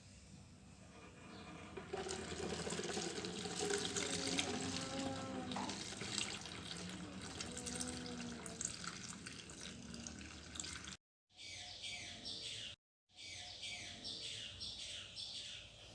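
Water running from a tap into a sink. After two brief cuts it gives way to a run of short, high, falling chirps, about two a second.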